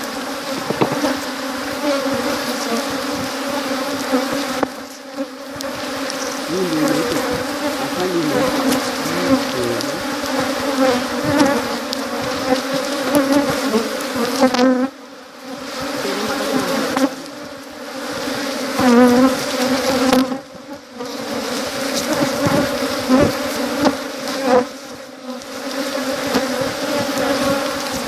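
Honeybees buzzing in numbers: a steady hum that drops away briefly several times.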